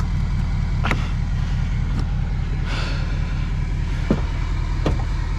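Truck engine idling steadily with an even low pulse, with a few light clicks or taps over it.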